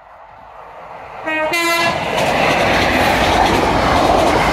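The Midland Pullman, an HST train, approaches the level crossing and sounds a short two-note horn about a second in. It then passes at speed with a loud, steady rush of train noise.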